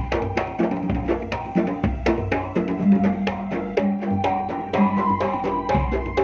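Pencak silat accompaniment music led by kendang drums: a fast, steady run of hand-drum strokes mixing sharp slaps with pitched, booming tones, played over a sound system.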